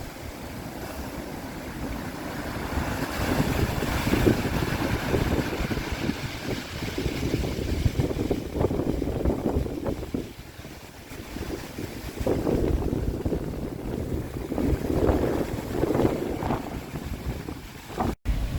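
Storm wind buffeting the microphone: a rough, low rumble that swells and drops in irregular gusts. It cuts out for an instant near the end.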